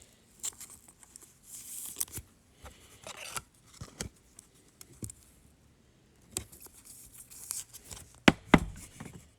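Foil wrapper of a trading card pack being torn open and crinkled, with the cards handled and two sharp taps near the end.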